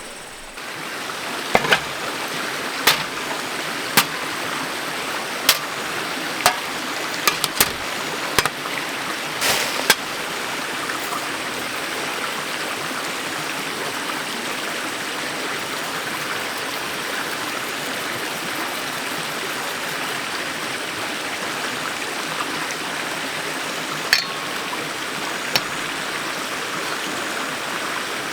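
Valley stream flowing steadily, with a scattering of sharp clicks and knocks over the first ten seconds and two more near the end.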